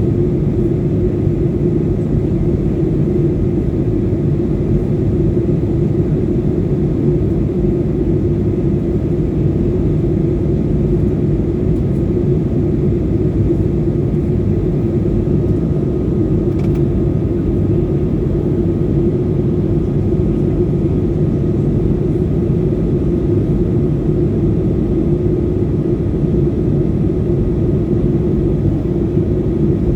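Steady drone of an airliner in flight heard inside the passenger cabin: a deep, even rumble of engines and airflow with a low hum, unchanging throughout.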